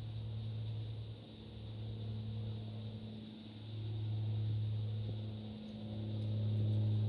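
Low, droning aircraft engine hum that swells and fades about every two seconds.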